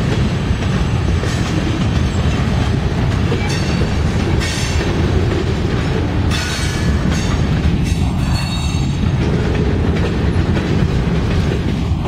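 A Norfolk Southern freight train passes close by: the diesel locomotives rumble past, then the freight cars roll by with clattering wheels. Brief high-pitched wheel squeals come in a few seconds in.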